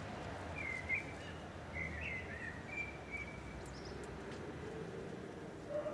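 Outdoor background noise with a few short bird chirps, mostly in the first half.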